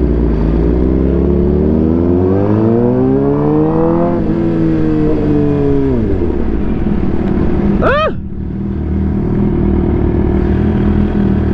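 Sportbike engines idling. One engine's pitch climbs steadily for about four seconds and then drops away sharply. About eight seconds in comes a quick, sharp rev blip, and then the engines settle back to a steady idle.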